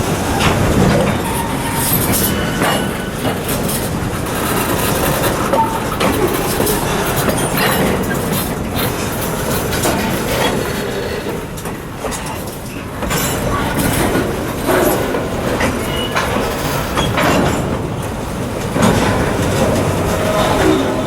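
Maumee & Western freight train's cars rolling over rough, poorly maintained jointed track, wheels clattering with irregular knocks and bangs over the joints. A few brief squeals come from the wheels.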